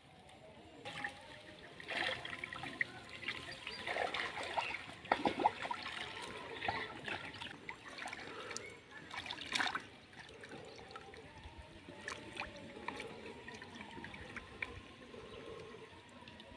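Water splashing and trickling in irregular bursts, with scattered small clicks, busiest in the first half and again briefly near the middle.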